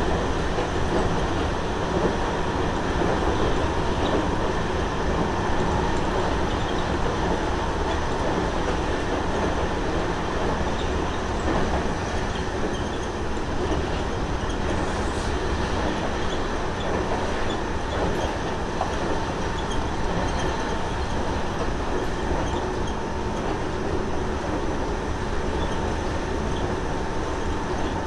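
Seibu 30000 series commuter train (later batch, Hitachi two-level IGBT VVVF drive) running, heard from inside a motored car: a steady rumble of wheels on rail, with a faint steady tone.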